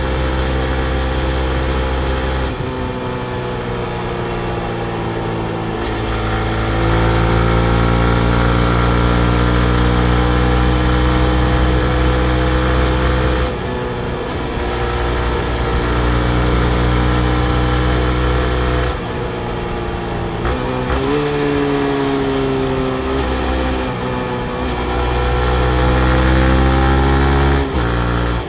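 Yamaha MT-15's 155 cc single-cylinder four-stroke engine running while ridden on the street, its pitch holding steady, dropping off and stepping up as the throttle is opened and closed, with a short rev about two-thirds of the way through.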